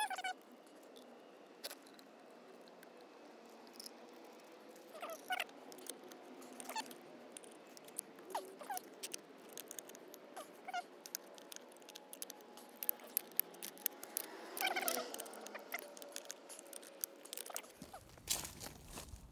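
Scattered light clicks and short metal scrapes of hand tools tightening the cover screws on a Wilkins 975XL backflow preventer, worked one side then the opposite, with a busier run of clicks about fifteen seconds in.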